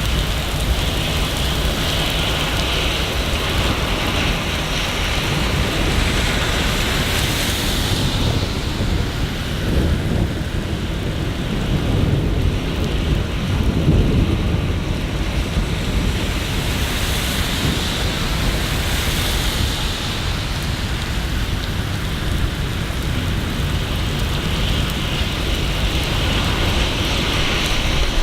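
Steady rain falling in a city, an even hiss with no breaks. A low rumble swells and fades about midway through.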